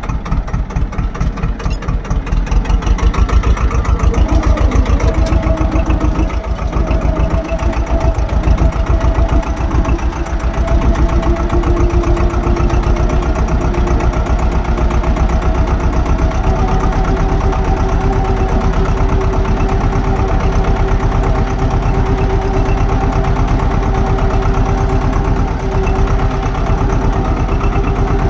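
Swaraj tractor's diesel engine running with a rapid, even firing beat. It picks up about two seconds in and then runs steadily.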